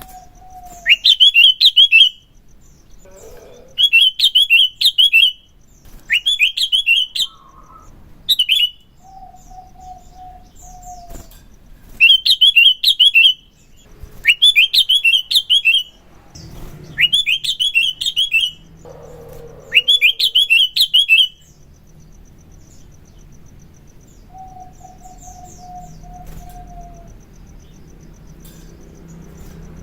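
Sooty-headed bulbul (kutilang) singing: eight loud bursts of fast, rapid-fire chattering notes, each lasting one to two seconds, delivered one after another. It stops a little past two-thirds of the way through, leaving only a faint background hum.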